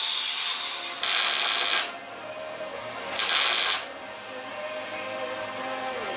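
Welder laying tack welds on a steel fender flange: three short crackling, hissing bursts, the last about three seconds in, each stopping sharply, then a quiet pause.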